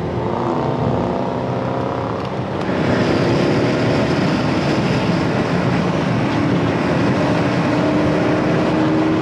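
Car engine accelerating hard under load, its pitch climbing steadily. It gets noticeably louder about two and a half seconds in.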